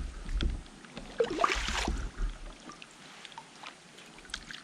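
Handling noises aboard a kayak: clicks and knocks against the hull with light water sounds, louder in the first two seconds, with a brief rising sound about a second and a half in, then quieter with a few scattered ticks.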